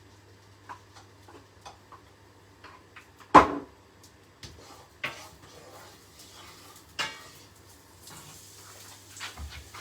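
Kitchen pans and utensils clattering: scattered light taps and clinks, one loud knock about a third of the way in, and two smaller knocks later.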